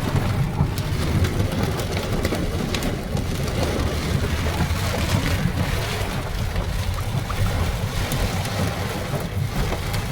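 Heavy rain pouring steadily, a dense hiss with a constant low rumble underneath.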